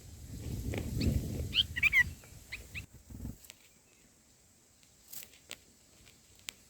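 Bulbul nestlings at the nest giving a quick run of short, high chirps over a low rustling of feathers and nest, then a few faint clicks.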